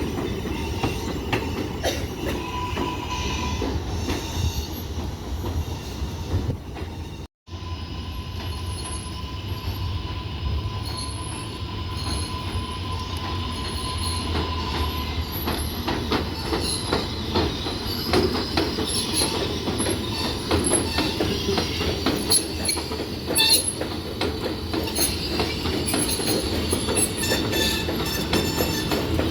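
R188 subway train running on the (7) Flushing Line: a steady rumble of wheels on rails with high wheel squeal. The sound cuts out for a moment about seven seconds in, then carries on.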